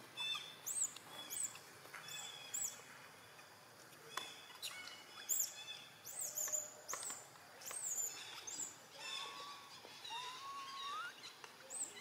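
Birds chirping: many short, high, quick notes repeated throughout, with two or three thin, wavering calls near the end.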